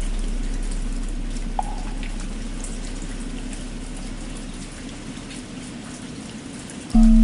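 Steady rain with a deep bell's low hum slowly fading out, then the bell struck again just before the end. A single short, hollow wooden-fish (muyu) knock about a second and a half in.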